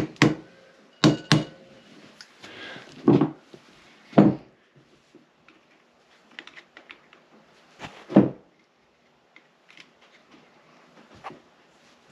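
Hammer blows on a punch driven against a stuck screw in a seized Honda CB450 engine: about five loud knocks at uneven gaps, with light clicks of metal tools in between.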